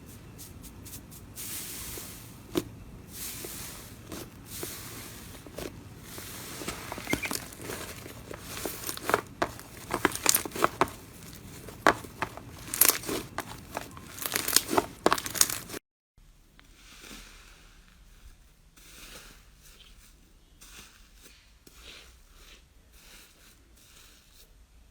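Slime being pressed and stretched by hand, making a dense run of crackling pops and clicks that grow louder toward the middle. About two-thirds of the way through it cuts off suddenly, and quieter, softer crackles and squishes follow.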